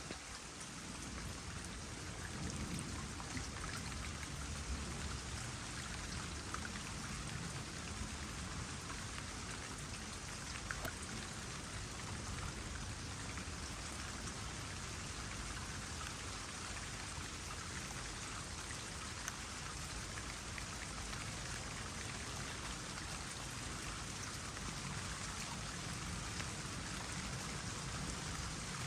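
Steady trickle of water into a small pond, with light rain pattering on the surface and scattered single drops.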